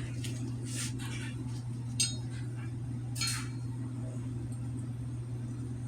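Light metallic clinks and scrapes of small bicycle bearing parts being handled while they are packed with grease, with one sharp ringing chink about two seconds in and another just after three seconds. A steady low hum runs underneath.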